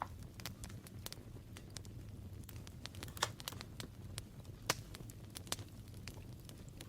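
Paper and craft materials being handled on a work surface: irregular light taps and clicks, two of them louder about three and four and a half seconds in, over a faint low hum.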